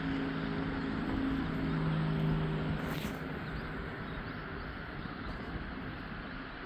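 A steady engine hum that fades away after about three seconds, over outdoor background noise, with a single short click midway.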